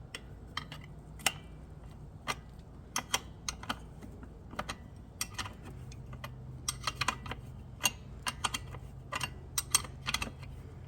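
Adjustable wrench clinking on a nut and the metal footpeg bracket of a dirt bike as the nut is run onto the footpeg pivot bolt: irregular sharp metal clicks, at times several a second, over a faint steady low hum.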